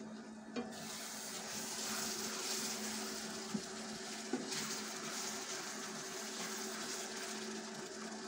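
Tomato and onion masala frying in oil in a pan, sizzling steadily as a wooden spoon stirs it, with a few light knocks of the spoon against the pan. A steady low hum runs underneath.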